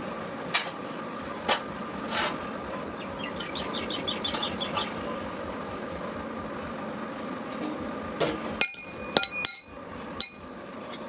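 Hammer striking metal: a few separate blows, a quick run of light clinks, then several ringing metallic strikes near the end, over a steady workshop hum.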